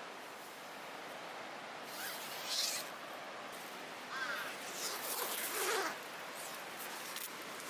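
Steady rush of flowing river water, with a few short louder sounds over it about two seconds in and again from four to six seconds in.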